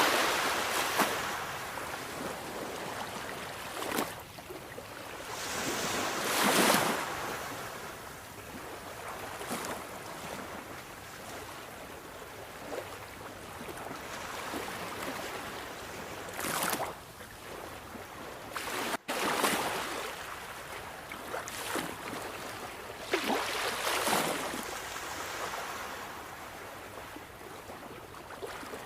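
Sea waves on a shore: a steady wash of surf with waves breaking every several seconds, the loudest about six seconds in and again near the end. The sound cuts out for an instant about two-thirds of the way through.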